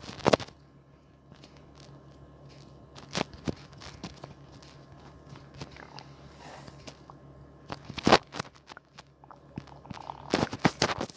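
Scattered sharp clicks and taps a few seconds apart, with a small cluster near the end, over a faint steady hum.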